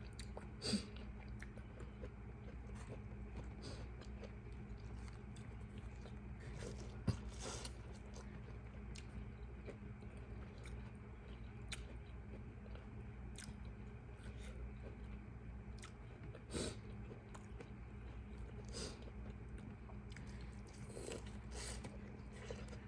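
Close-up mouth sounds of a person eating a seafood boil: faint chewing with scattered short smacks and clicks. A steady low hum sits underneath.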